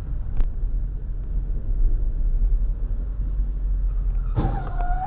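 Steady low rumble of a car driving, with a short knock and a brief wavering tone about four seconds in.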